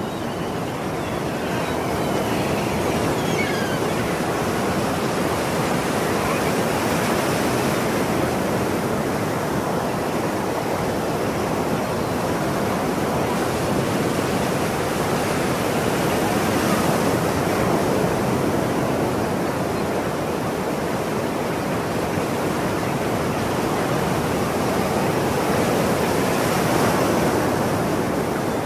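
Ocean surf washing in a steady, continuous wash of noise that swells a little about every ten seconds as waves break.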